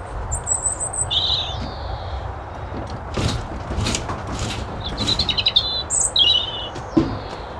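A small songbird chirping in two short, high phrases, one near the start and another about five seconds in, over a steady low background. A few sharp knocks or taps come in between and near the end.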